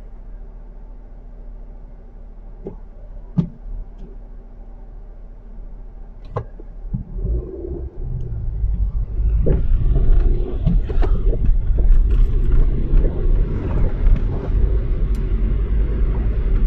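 Car heard from inside the cabin: a quiet steady idle with a few light clicks, then from about seven seconds in the engine pulls away and the engine-and-tyre rumble grows much louder as the car gets moving on the slushy, snow-covered road.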